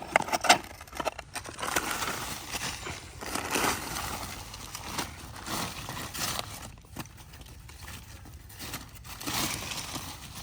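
Hard cement being scraped and chipped off a phone: a few sharp knocks at the start, then rough, uneven scraping strokes.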